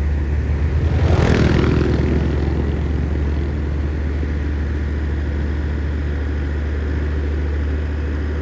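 A heavy engine running steadily, with a vehicle passing close by about a second in, its noise swelling and then fading.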